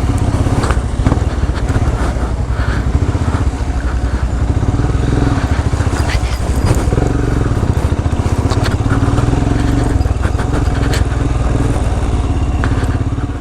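Royal Enfield Himalayan's single-cylinder engine running steadily at low speed over rough off-road terrain, with scattered knocks and clatter from the trail. The sound drops away sharply at the very end.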